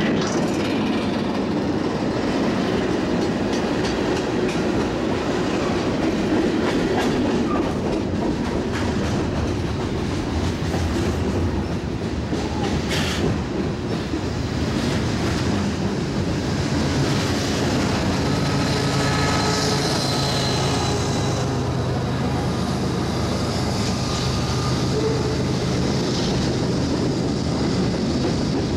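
Freight cars rolling past at close range: a steady rumble of steel wheels on rail, with one sharp clank about halfway through and thin squealing tones from the wheels a little later.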